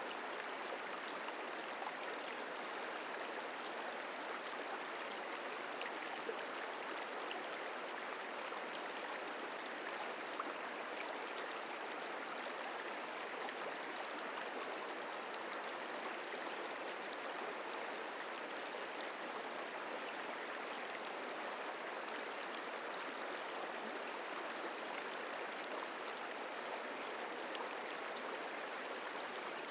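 Merced River flowing: a steady, even rush of water.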